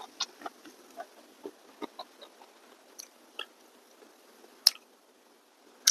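A person chewing food: a run of soft, wet mouth clicks and smacks, with two sharper smacks near the end.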